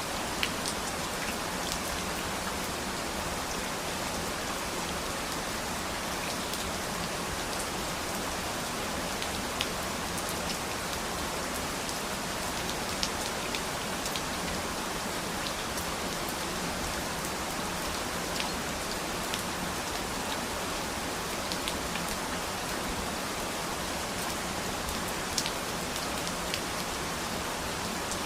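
Steady rain falling, with scattered individual drops ticking sharply now and then.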